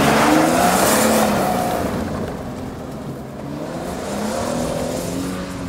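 Holden Commodore wagon's engine revving hard, loudest as the car passes close, then fading as it pulls away, with a fresh run of rising revs about four seconds in.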